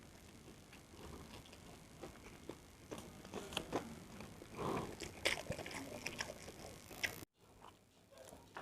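Close-up chewing and biting of fried rice, with small wet clicks and crackles from the mouth. The sound drops out suddenly about seven seconds in.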